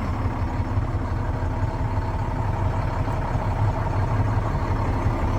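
A 2007 International 7600 truck's diesel engine idling steadily.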